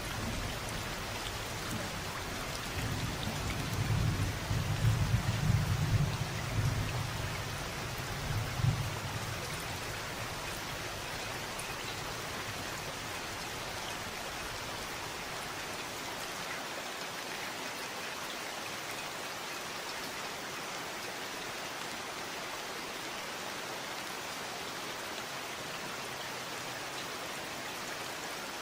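Steady rain falling, with a low rumble of distant thunder in the first third that swells a few seconds in and then fades away, leaving only the rain.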